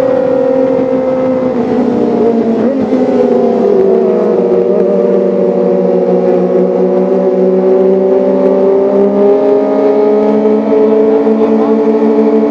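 Kawasaki ZX-25R's four-cylinder engine running at high revs. Its pitch eases down over the first few seconds, then slowly climbs again.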